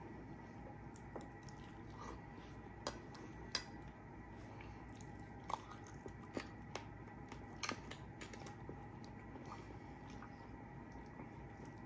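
Close-up chewing and biting of baked chicken, with wet mouth smacks and a handful of sharp clicks between about three and eight seconds in, over a low steady hum.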